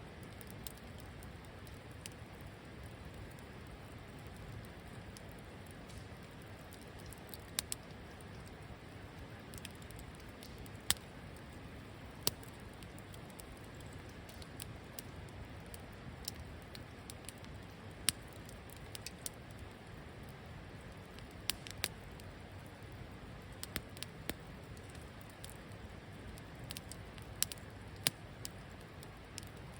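Wood campfire burning with a soft steady hiss, broken by a dozen or so sharp crackling pops at uneven intervals.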